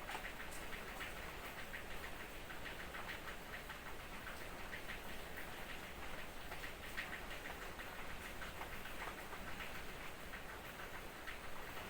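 Light drizzle pattering: a dense, irregular stream of small drop ticks over a soft, steady hiss of rain.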